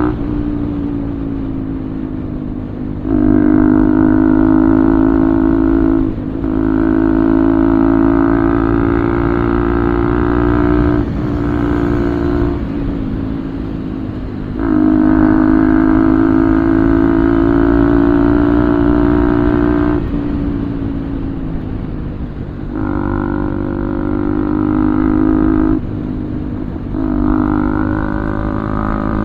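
Bajaj Pulsar 200 single-cylinder engine through an Akrapovic full-system exhaust, revved up and held at a steady high pitch for a few seconds at a time, about six times, dropping back to a low idle rumble in between.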